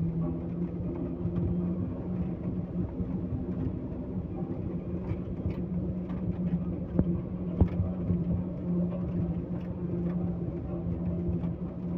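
Heavy vehicle engine running steadily at a constant pitch, with two sharp knocks a little over halfway through.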